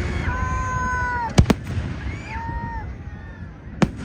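Aerial fireworks bursting over a steady low rumble, with two sharp bangs in quick succession about a second and a half in and another near the end. Between the bangs come high whistling tones, each held for about a second and dipping slightly in pitch.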